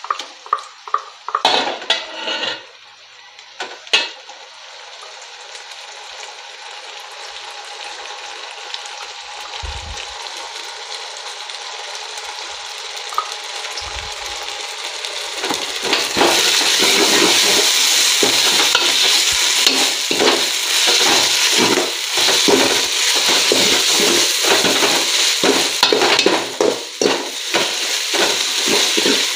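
Ginger-garlic paste frying in hot oil with softened onions in an aluminium pot: a few metal knocks at the start as the paste is tapped out of a steel tumbler against the pot, then a sizzle that grows steadily louder. In the second half a ladle scrapes and stirs the pot about twice a second over the loud sizzle.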